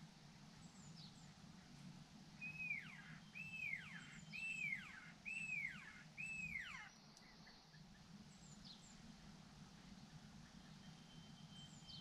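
A small songbird calling: a run of five evenly spaced notes in the middle, each rising and then falling, with faint high chirps before and after.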